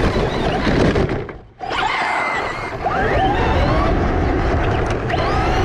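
RC car running: the motor whines, its pitch rising and falling as the car speeds up and slows, over a rushing noise. The sound drops out briefly about a second and a half in.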